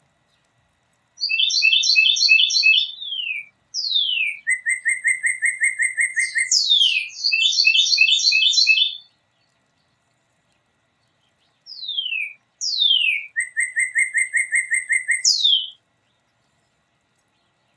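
A songbird singing two long, complex song bouts of rapid trills, quick downward-sliding whistles and very high thin notes. The first bout lasts about eight seconds; the second starts about twelve seconds in and lasts about four.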